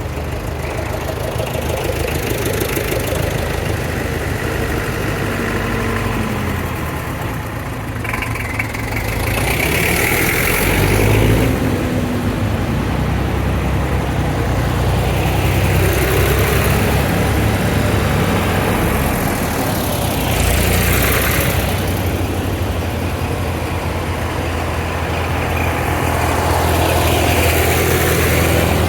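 Vintage tractor engines running as tractors pull away and drive past one after another, with a steady low drone that swells as each one passes.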